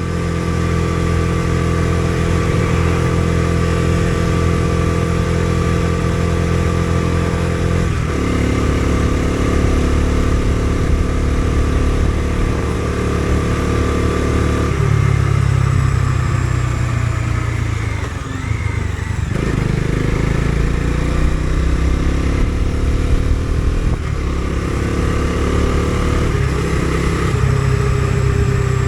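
Bajaj Dominar 250's single-cylinder engine running while riding. It holds a steady pitch, then the pitch shifts several times: about 8 and 15 seconds in, and with a dip and gliding pitch around 18 to 20 seconds.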